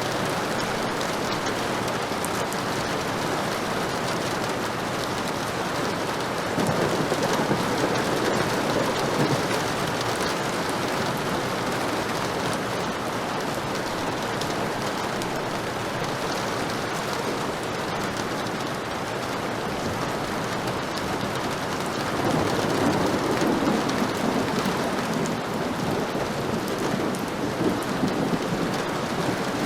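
Heavy rain falling steadily, with two rolls of thunder swelling up, one about seven seconds in and another about twenty-two seconds in.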